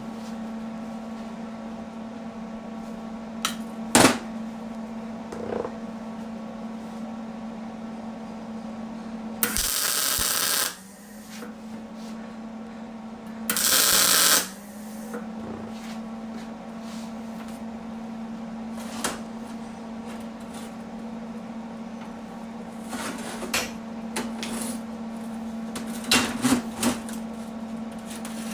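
Two tack welds from a gas-shielded arc welder, each about a second of loud, even crackle, joining rebar pegs to a flat-bar bracket. A steady hum runs underneath. There is a sharp metallic click a few seconds in, and small clicks of metal being handled near the end.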